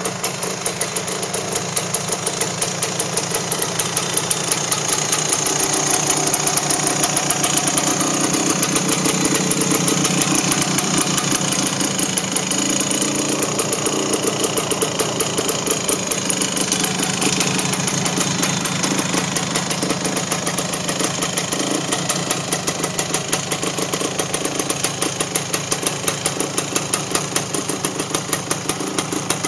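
Honda Elsinore MT250's two-stroke single-cylinder engine idling with a rapid, even popping of firing strokes. It runs up a little louder in the first half, then settles back.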